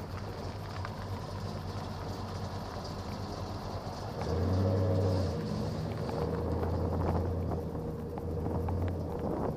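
2005 Ford Crown Victoria's 4.6-litre V8, fitted with Stainless Works exhaust, idling with a steady low hum. It grows louder about four seconds in as the car rolls forward at low speed, then settles into a steady drone.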